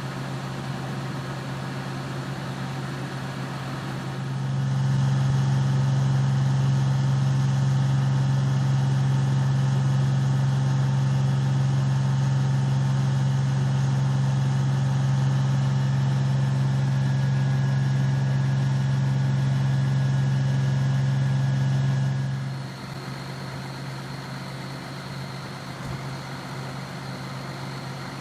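Fire truck's diesel engine idling with a steady hum. About four seconds in it gets markedly louder and holds at one pitch, then drops back to the quieter level near the end.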